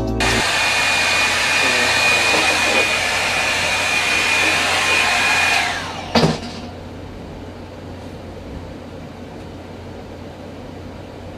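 Revlon One-Step hair dryer brush running with a steady blowing noise and a high motor whine, then switched off about six seconds in: the whine falls in pitch as the motor winds down. A short knock follows, then only a faint hiss.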